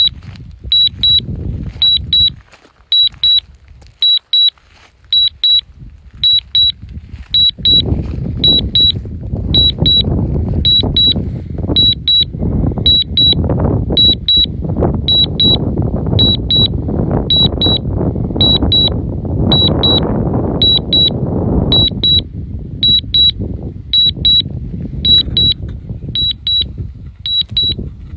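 A drone controller's warning alarm: short, high-pitched double beeps repeating about once a second. Gusting wind buffets the microphone, strongest through the middle.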